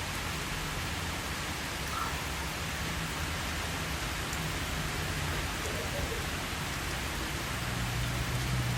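Steady rain falling, with a low rumble of distant thunder beneath it that builds near the end.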